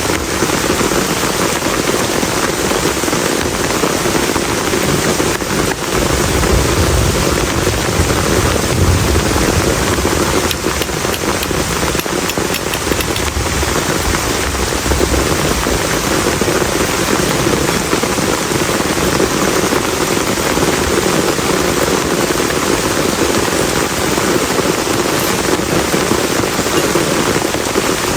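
Heavy rain falling steadily, a dense patter of drops striking a plastic tarp.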